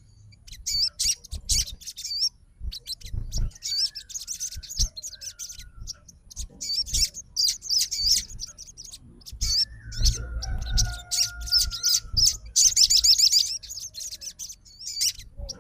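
A sogon songbird calling in its aggressive 'fighter' mode, in repeated bursts of quick, wavering high-pitched chirps that run into a fast trill near the end. A few lower whistled notes and soft thumps come in between.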